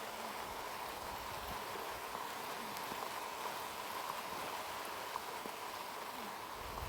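Steady rain falling, an even hiss with a few light drop taps scattered through it.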